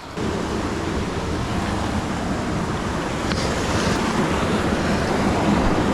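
Waterfall pouring into a river pool: a steady, dense rush of falling water.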